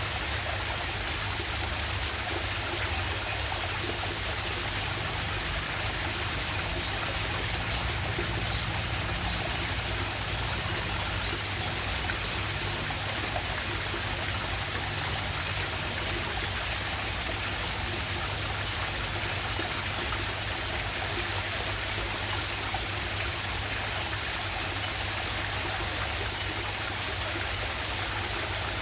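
Water of a small jungle waterfall and river rushing, a steady even hiss that does not change.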